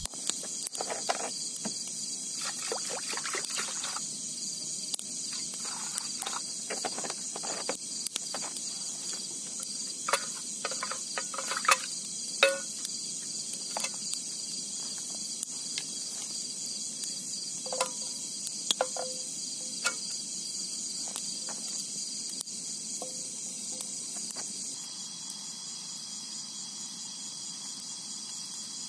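Steady high-pitched chorus of insects, with scattered clicks, knocks and short metallic clinks from handling camp gear that die away near the end.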